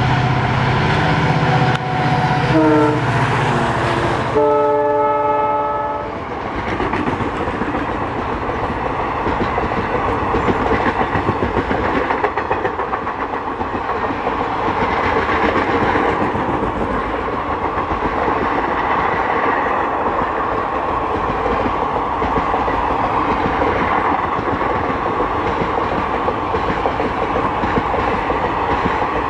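Diesel locomotive passing at speed with its engine running, sounding its horn from about two and a half to six seconds in. Then a long rake of passenger coaches rolls by with a steady rush and clatter of wheels on the rails.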